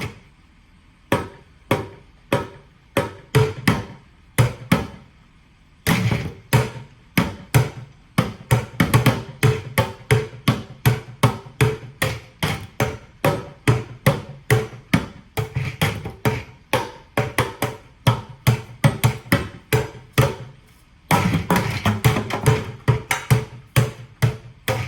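Drumsticks beating buckets played as a drum kit: single spaced strokes for the first few seconds, then a fast, continuous rhythm from about six seconds in, with a dense roll near the end.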